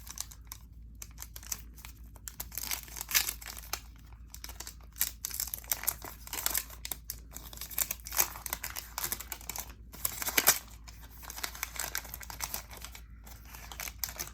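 Wrapper of a 1981 Fleer baseball card pack being torn open and crinkled by hand, with irregular crackling and rustling throughout.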